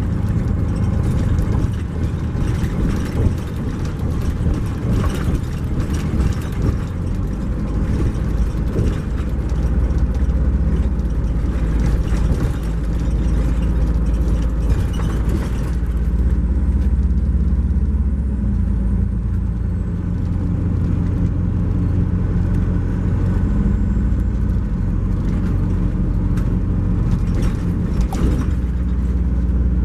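A 2012 MCI J4500 coach under way, heard from inside the cabin: its Cummins ISX12 diesel runs steadily under road noise, with many small rattles and knocks. About halfway through the rattling and hiss ease off and the engine note shifts.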